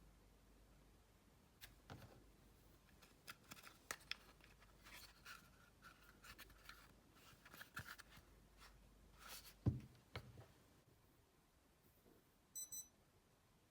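Faint, scattered clicks and light scrapes of small parts being handled, with one louder knock about ten seconds in. Near the end comes a short high double beep.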